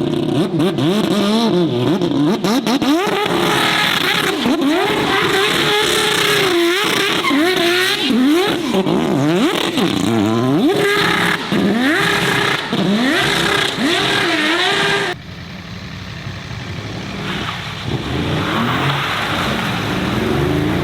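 A car engine revved hard over and over, its pitch sweeping up and down about once a second as the driver works the throttle to spin the car in donuts. About 15 seconds in it cuts off suddenly to a quieter, steadier engine.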